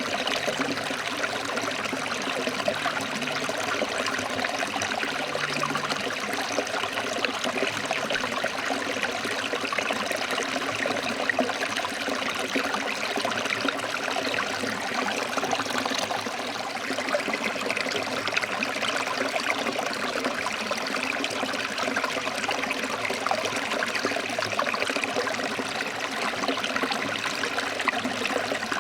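Forest stream flowing over rocks, a steady rush and trickle of water.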